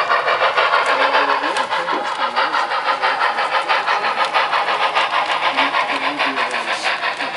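Sound-equipped model steam locomotive chuffing steadily through its small onboard speaker, about five or six exhaust beats a second over a steady hiss, as it moves cars in the yard.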